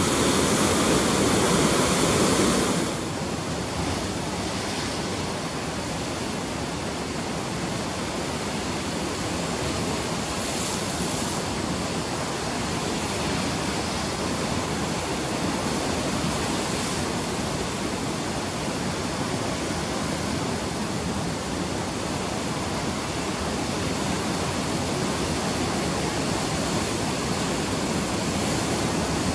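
Ocean surf breaking, a steady wash of waves with no distinct individual crashes. It is louder for about the first three seconds, then drops to a lower, even level.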